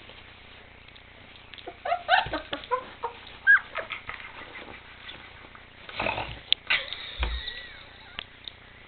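23-day-old Bernese Mountain Dog puppies giving short, high, squeaky yips and little barks in two bursts, one starting about two seconds in and one about six seconds in. A low bump comes near the end of the second burst.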